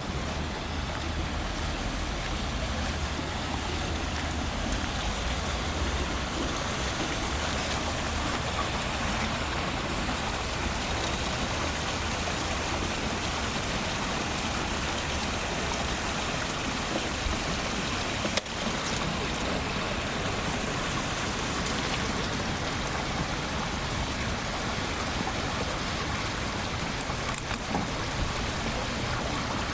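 Steady rain falling, an even hiss with no let-up, with a single brief click about eighteen seconds in.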